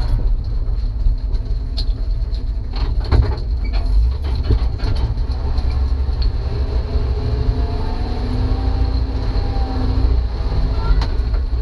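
Kaiser Jeep M715 military truck driving, its 230 cubic inch Tornado engine running under load over a heavy low rumble, with knocks and rattles. A faint whine rises in pitch in the second half.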